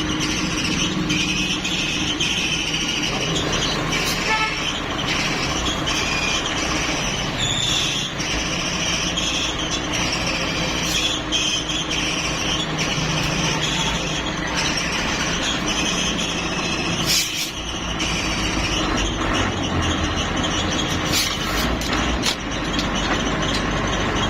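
A large engine or machine running steadily, with a few short clicks and knocks over it.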